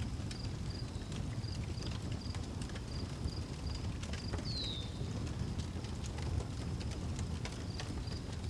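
Outdoor wood fire crackling, with sharp pops over a low steady rumble, while a cricket chirps about twice a second. A bird gives one short down-slurred whistle about four and a half seconds in.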